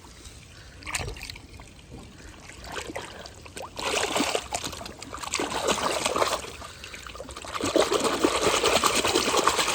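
Water trickling and splashing as a muddy toy vehicle is rinsed by hand in pond water. Quiet at first, it gets busier and louder from about four seconds in.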